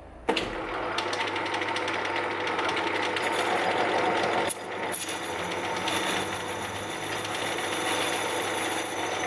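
A workshop machine starts up suddenly and runs steadily. About six seconds in, a fast rhythmic pulsing joins it.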